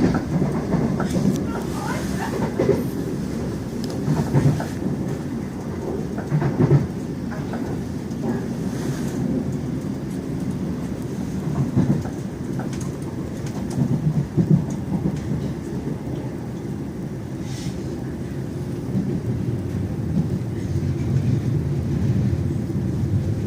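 Passenger train running, heard from inside the carriage: a steady low rumble, with a few clatters and knocks from the wheels passing over rail joints and pointwork.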